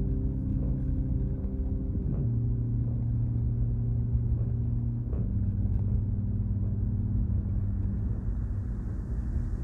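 Car driving at a steady pace on an open road: a continuous low rumble of engine and road noise, with steady low tones that shift in pitch a few times.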